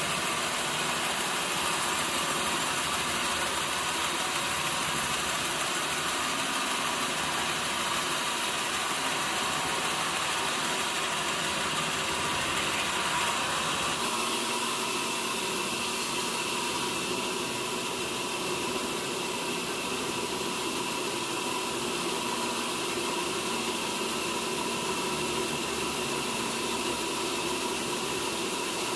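Sawmill machinery running steadily between cuts, an engine and spinning blade without wood in the cut; the tone of the running changes about halfway through.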